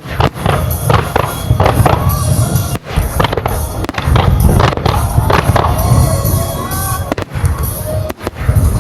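Fireworks bursting in rapid, dense succession, sharp bangs and crackles over a continuous deep rumble, with music playing along with the show.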